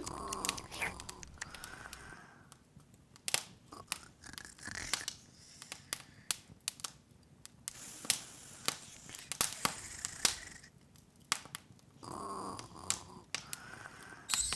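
Open wood fire crackling: irregular sharp pops and snaps over a faint hiss.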